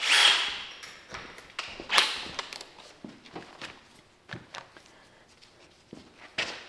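Scattered clicks, taps and knocks of hand work with tools and parts, opening with a short hissing burst and with one sharp knock about two seconds in.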